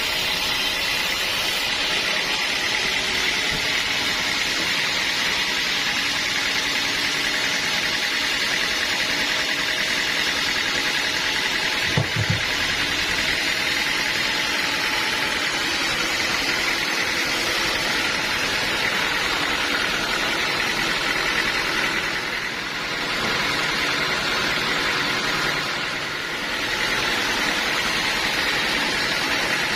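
Sawmill machinery running steadily while sawing teak, a constant mechanical noise with a thin whine through it. A single sharp knock comes about twelve seconds in, and the level dips briefly twice near the end.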